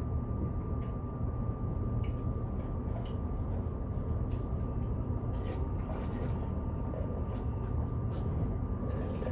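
Kintetsu Shimakaze Express train heard from inside the car: a steady low running rumble with a thin steady high tone over it. A few light clicks come through now and then.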